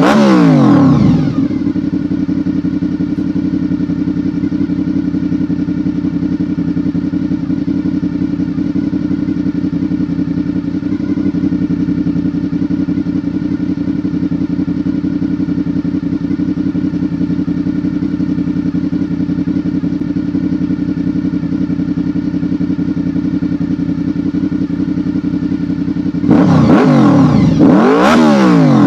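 Honda VFR800's V4 engine dropping back from a rev to a steady idle, then revved up and down again near the end.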